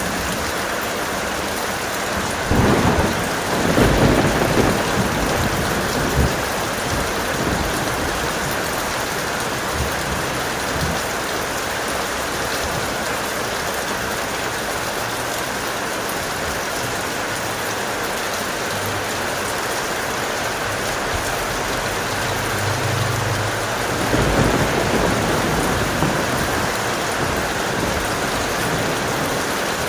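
Heavy, steady rain with rolling thunder, a loud rumble a few seconds in and another near the end.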